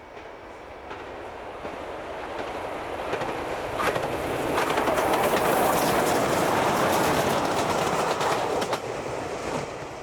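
Railway locomotives passing at close range, their wheels clicking over the rail joints; the sound builds, is loudest about halfway through, and fades toward the end.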